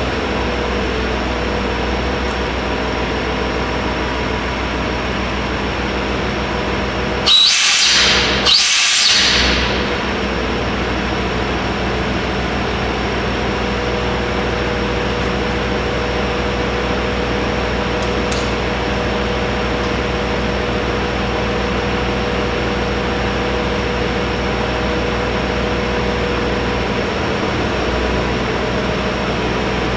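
JR Hokkaido H-100 DECMO diesel-electric railcar standing with its diesel engine and electrical equipment running, a steady hum and whine. Two short bursts of compressed-air hiss come about seven and eight and a half seconds in.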